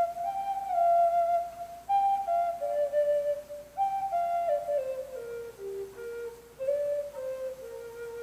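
Native American flute playing a slow melody in short phrases, each starting high and stepping down note by note, with brief breaks for breath between them.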